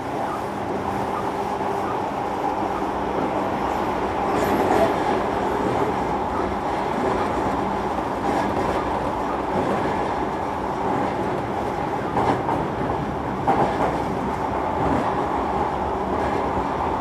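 Interior running noise of a JR Kyushu 305 series electric train, heard inside motor car MoHa 305-103: a steady rumble of wheels on rail with a few faint clicks.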